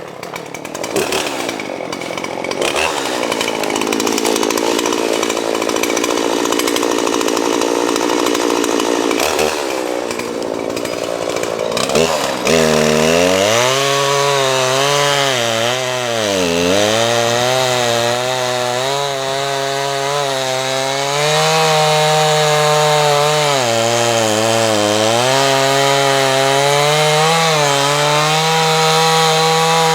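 Gas chainsaw running and cutting into a dead box elder tree. About twelve seconds in, a strong engine note takes over, its pitch dipping and recovering repeatedly as the saw is loaded in the cut.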